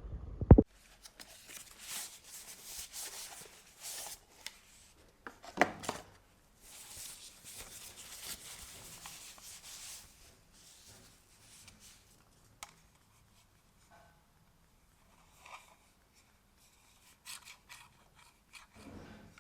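Close-up handling sounds: a sharp knock about half a second in, then several seconds of rubbing and scraping that thin out into scattered small clicks and taps.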